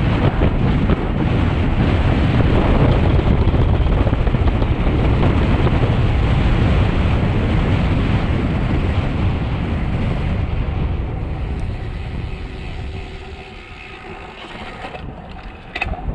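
Wind rushing over the camera microphone of a road bike descending at speed, with the hum of the tyres on the road. The rush eases off over the last few seconds, and there is a short sharp sound near the end.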